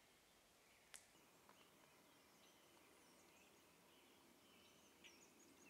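Near silence with faint bird chirps and calls scattered through, and one faint click about a second in.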